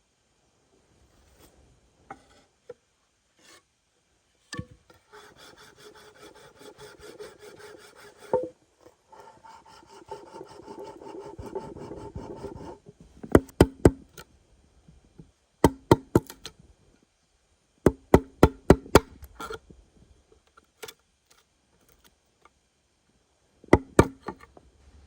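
Hand work on wood: a stretch of rapid rasping strokes like sawing or scraping, then several quick groups of sharp knocks on wood.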